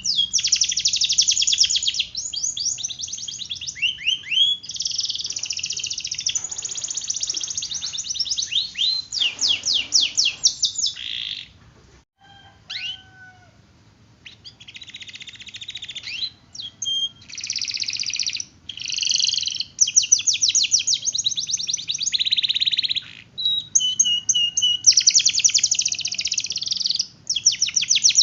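Domestic canary singing a long, high-pitched song of fast trills and rolls, with a short lull about twelve seconds in before the rolling resumes.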